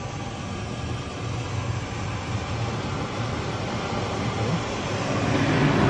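Automated car wash spraying water onto the car, heard from inside the closed cabin: a steady rushing noise with a low rumble that grows louder, most of all near the end.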